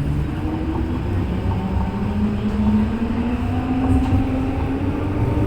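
Alicante FGV tram, unit 4224, under way with a steady rail rumble and the whine of its motors rising slowly in pitch as it gathers speed.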